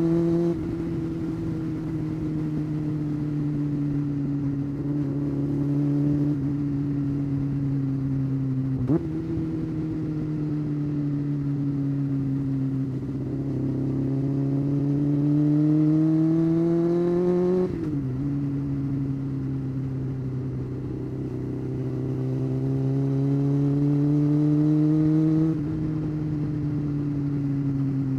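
Honda CBR600 F4 motorcycle's inline-four engine under way. Its note climbs gently under light throttle and drops abruptly several times as it shifts gear.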